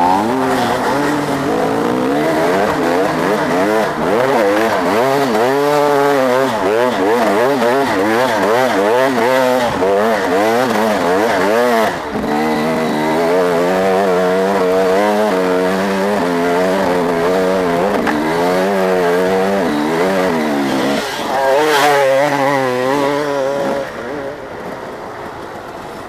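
Motocross motorcycle engine revving, its pitch rising and falling over and over as the throttle is worked. It quietens near the end.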